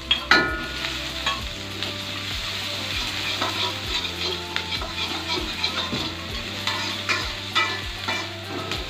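Sliced onions sizzling in a hot wok while being stir-fried, the utensils scraping and tapping the pan many times. A ringing clink just after the start as the onions are tipped in from a plate.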